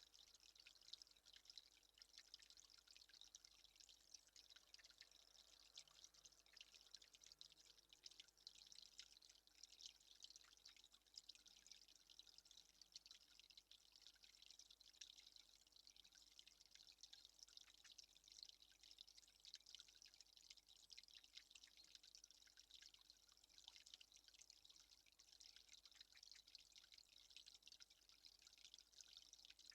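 Faint, dense patter of water drops ticking irregularly and without a break.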